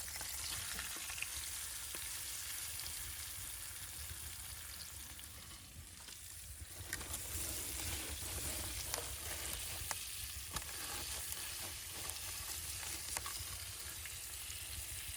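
Flour-dusted fish frying in hot oil in a pan: a steady sizzle with scattered small crackles.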